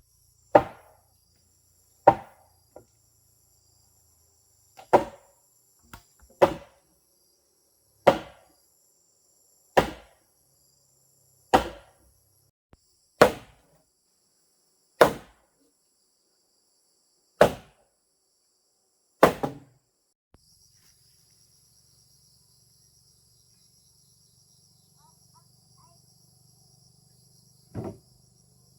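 Hand tool chopping into wood, about eleven hard single strikes one every second and a half to two seconds, stopping after about twenty seconds, with one more strike near the end. Insects trill steadily in the background.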